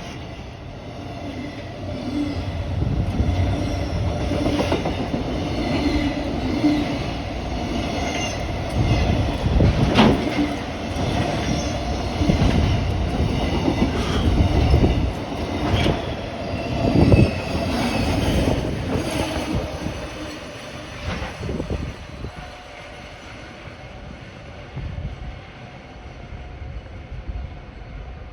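Freight train of a DF200 diesel-electric locomotive and container wagons passing through at speed, wheels clattering over the rail joints in a string of sharp clacks with some high wheel squeal. The noise grows loud within the first couple of seconds and fades away over the last third as the train recedes.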